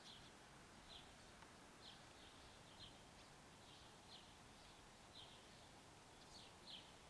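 Faint bird chirps over quiet outdoor background hiss: short high notes, repeating about once a second.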